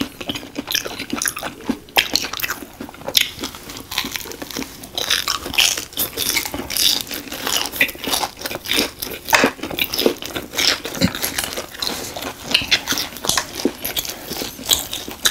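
Two people chewing mouthfuls of breaded, deep-fried Korean hot dog close to the microphone: many small crunches of the crisp coating mixed with wet, sticky chewing.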